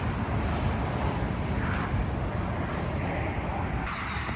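Steady highway traffic noise from passing vehicles, mixed with wind rumbling on the microphone. It cuts off near the end to quieter outdoor ambience.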